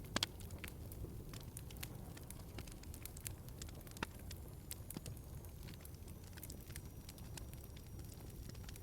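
Wood fire in a fireplace crackling, with irregular sharp pops and snaps over a low steady rumble of the flames. There is a loud double pop right at the start and another sharp pop about four seconds in.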